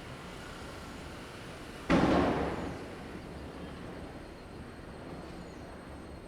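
One firecracker bang about two seconds in, its echo dying away over about a second, over steady background noise.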